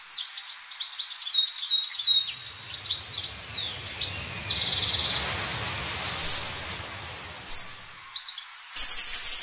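Small birds chirping, many quick high chirps that slide downward and overlap one another. Near the end the chirping gives way abruptly to a steady hiss.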